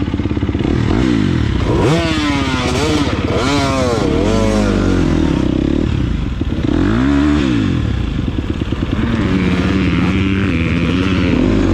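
Dirt bike engine revving up and backing off several times as the throttle is opened and closed, the pitch climbing and dropping in arches, as a rider takes a triple jump.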